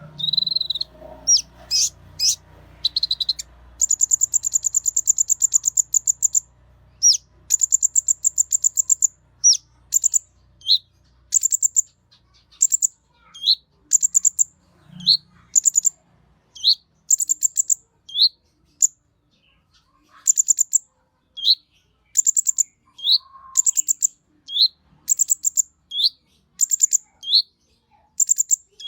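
A konin songbird singing: rapid high trills, each followed by a short lower note, repeated roughly once a second in a steady, insistent series.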